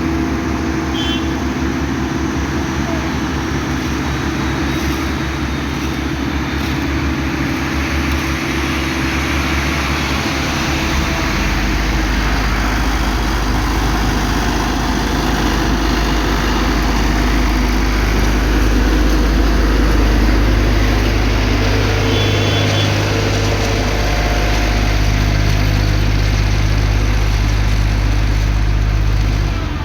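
Motor vehicle engine running steadily over a constant rush of noise. A deep engine hum grows stronger about a third of the way in, then cuts off suddenly at the end.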